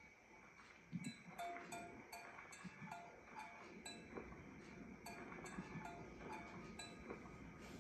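Faint cowbells clanking irregularly, a few strokes a second, each ringing briefly at the same few pitches.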